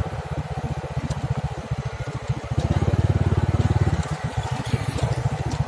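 An engine running with a fast, even firing pulse, growing louder about halfway through.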